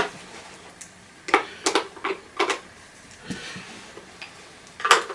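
Sharp plastic clicks and knocks, about half a dozen at uneven intervals with the loudest near the end, from handling a vacuum cleaner's plastic casing and screwdriver while looking for screws.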